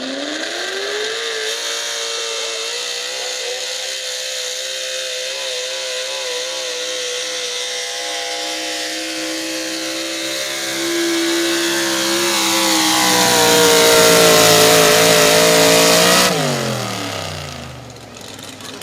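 Super stock pulling truck's engine held at high revs through a pull, wavering slightly and getting louder toward the end. About 16 seconds in the throttle is let off and the revs fall away quickly.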